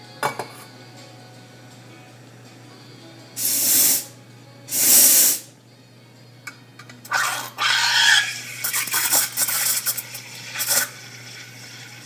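Steam wand of a vintage electric Bellman CX-25 espresso machine frothing milk. Two short, loud blasts of steam hiss come about three and a half and five seconds in. From about seven seconds there is a longer spell of broken, irregular hissing that stops just before the end.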